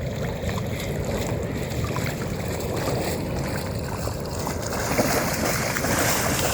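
Wind buffeting the microphone over the sound of water around kayaks, with small scattered knocks. About five seconds in, the water noise becomes brighter and hissier, like splashing.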